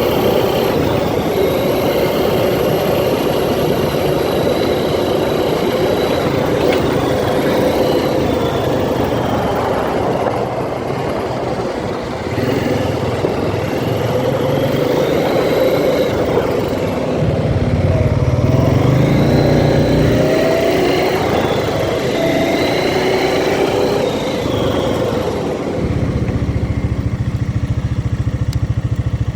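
ATV engine running while being ridden, its pitch rising and falling repeatedly with the throttle.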